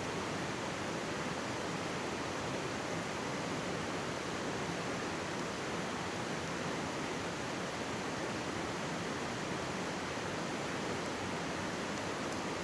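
Mountain stream flowing over rocks with a steady, even rushing sound.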